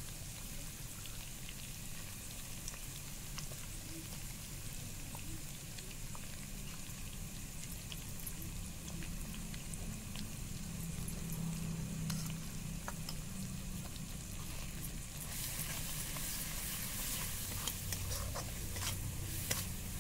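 Mushrooms frying in mustard oil in an aluminium kadai: a steady sizzle, with a metal spatula scraping and clicking against the pan. The sizzle and scraping grow louder in the last few seconds as a spice paste is stirred in.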